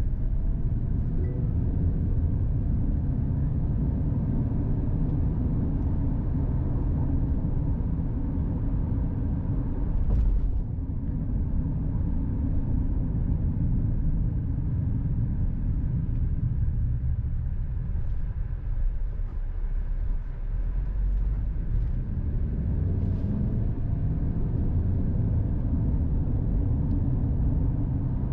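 Vehicle on the road: a steady low rumble of engine and tyres, with a brief knock about ten seconds in.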